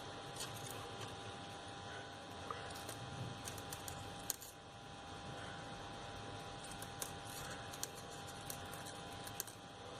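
Faint, scattered crinkles and ticks of crepe paper being handled as the paper flowers are opened out on the wire stem, over a steady low room hum.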